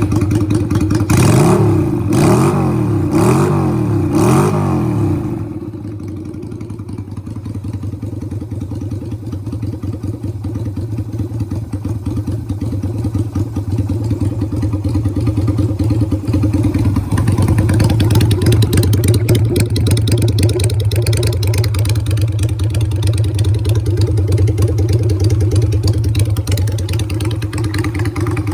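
Yamaha Virago 250's V-twin engine, just started, revved four times in the first five seconds and then settling into a steady idle.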